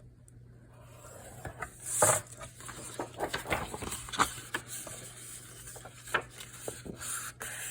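Paper being handled and scored on a scoring board: irregular scrapes, taps and rustles, with a louder swish of paper about two seconds in and another near the end.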